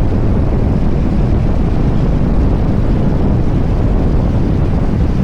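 2023 Harley-Davidson Street Bob's Milwaukee-Eight 114 V-twin running steadily on the move, mixed with wind rushing over the microphone.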